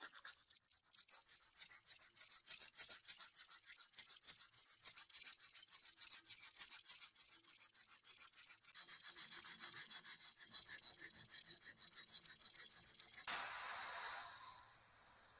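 Fast, rhythmic back-and-forth abrasive strokes on the metal of an antique meat grinder, about six a second, as rust is worked off by hand. Near the end the strokes give way to a steady hiss lasting about a second and a half.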